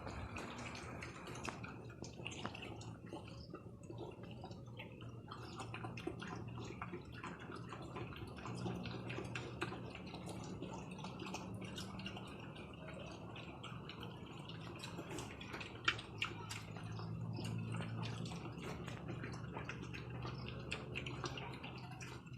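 Water dripping and trickling, many small irregular drips over a low steady hum.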